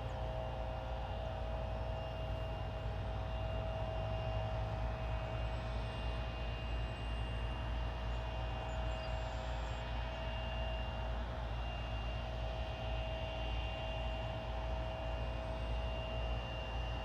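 Boeing 777-200ER airliner's Rolls-Royce Trent jet engines running on approach to land: a steady low rumble with two held whining tones on top that do not change in pitch.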